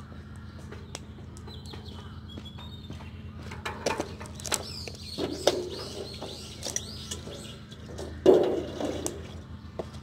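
Small birds chirping in short, high calls, over a steady low hum with scattered clicks and knocks. One louder, short sound about eight seconds in.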